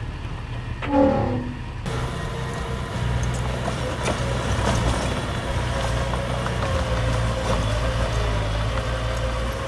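Diesel engine of heavy earthmoving machinery running steadily with a low rumble, with scattered light clinks. A short louder burst comes about a second in, before the engine sound settles.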